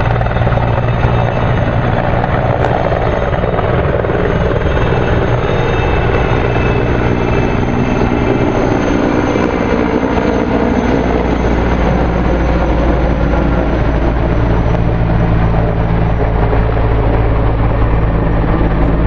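Firefighting helicopter flying close by, its rotor beating loud and steady.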